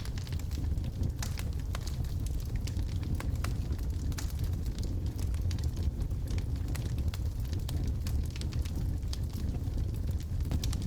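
Wood fire burning in a fireplace: logs crackling with many small irregular pops over a steady low rumble of the flames.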